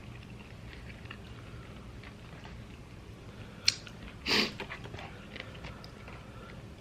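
Close-up chewing and biting of fried chicken, with a sharp click a little over three and a half seconds in and a short, louder bite noise just after.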